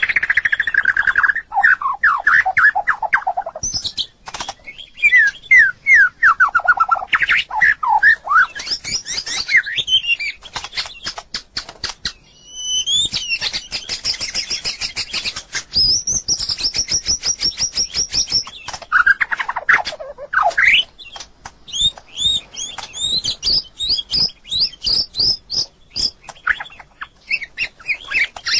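White-rumped shama singing: a long, varied song of whistled phrases sweeping up and down, fast high trills, and many short sharp notes between the phrases.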